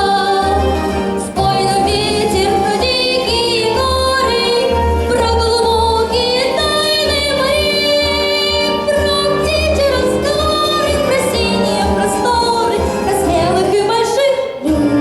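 A boy soloist singing in a high treble voice with vibrato, over an instrumental backing with a steady bass beat.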